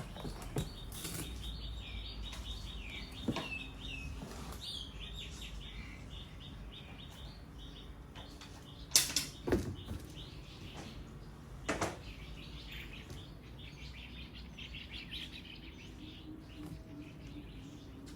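Small birds chirping repeatedly over a low steady hum, with a few sharp knocks: the loudest about halfway through, and more shortly after.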